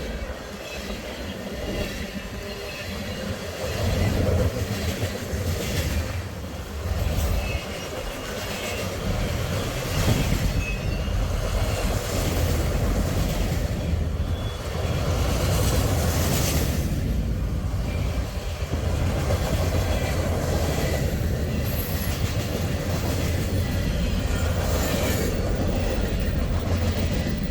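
Freight train's cars rolling past, a steady rumble of wheels on rail with faint wheel squeal.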